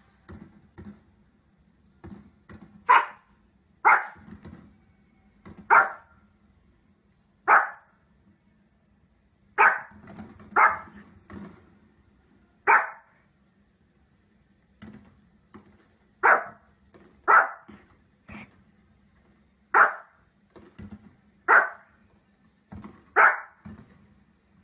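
Small fluffy dog barking: about a dozen sharp, single high barks at irregular intervals of one to two seconds, with fainter sounds in between.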